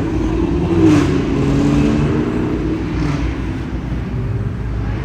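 Loud car exhausts running and revving, a deep steady rumble with a brief rise in pitch about a second in.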